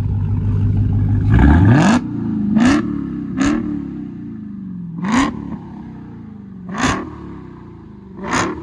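Car engine idling, then revved hard about a second and a half in, followed by five short, sharp throttle blips spaced one to two seconds apart.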